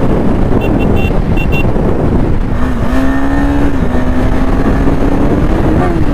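Motorcycle engine running at highway speed under the rider's throttle, with heavy wind rush on the microphone. About halfway through a steady engine note stands out, climbing slightly near the end.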